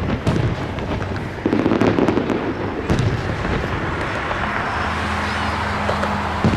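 Fireworks going off: several bangs with crackling in the first three seconds, the densest and loudest cluster about a second and a half in, and another bang near the end. A steady low hum joins about halfway through.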